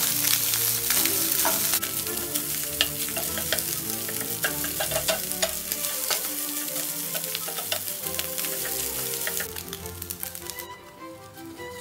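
Rice and scrambled egg sizzling in a hot stainless steel pan while a wooden spatula stirs and scrapes them, with many sharp clicks of the spatula against the pan. The sizzle stops suddenly near the end.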